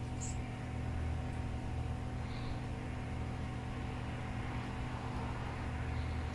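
Small hot-air heat gun blowing steadily, heating the circuit board from the back to loosen the solder on a faulty USB port.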